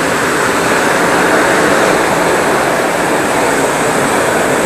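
Steady, loud rushing roar of water pouring through the dam's outflow, with no break or change.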